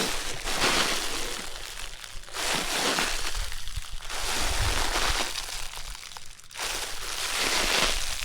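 A Mylar foil balloon being crumpled and crushed by hand, crinkling in a series of swells of a second or so each.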